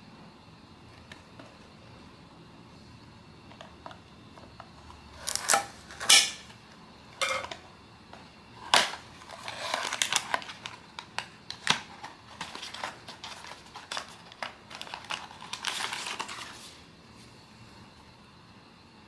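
Hands handling blind-box packaging, hard plastic and card: sharp clicks and knocks about five seconds in, then a run of taps, clatter and rustling that dies away near the end.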